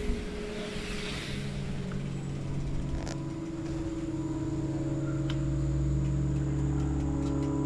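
An engine running steadily at one unchanging pitch, its hum growing slowly louder. Wind rushes over the microphone in the first second or so.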